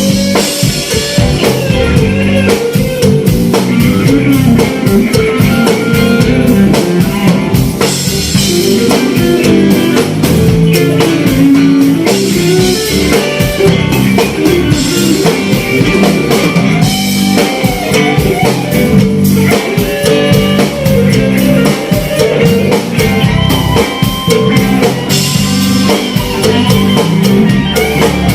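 A band playing music: drum kit and guitar over a steady beat.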